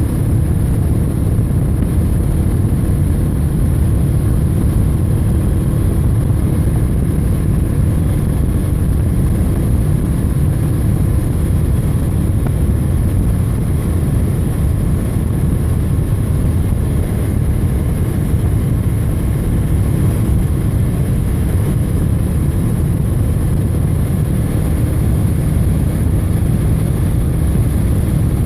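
Steady wind rush and road noise on a ride-mounted camera's microphone while riding at speed, with a low steady drone underneath.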